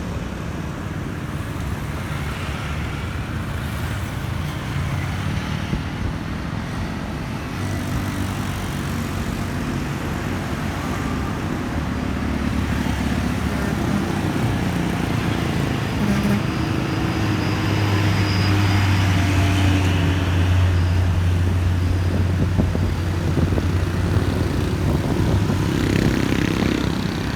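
Truck engine running in a steady low drone, growing louder past the middle and easing near the end, over road traffic noise.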